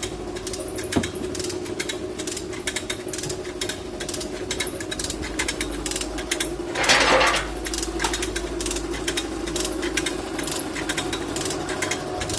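Rapid, continuous mechanical clattering over a steady motor hum, with a brief louder hiss-like burst about seven seconds in.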